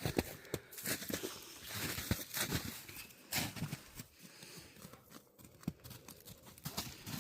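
Footsteps crunching in snow, an irregular run of quiet crunches and crinkles.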